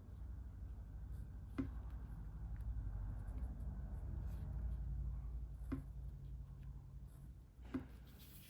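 Drawing strokes scratching on paper, with a few light taps, over a steady low hum.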